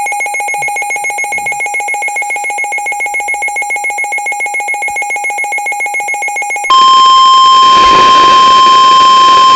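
A rapidly pulsing electronic alert tone for about seven seconds, then a loud, steady single-pitch tone near 1 kHz: the NOAA Weather Radio warning alarm tone that comes before a broadcast warning message.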